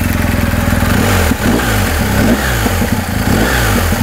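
BMW R1250 GS Adventure's 1254 cc boxer-twin engine idling, then revved in several short throttle blips from about a second in, the pitch rising and falling with each.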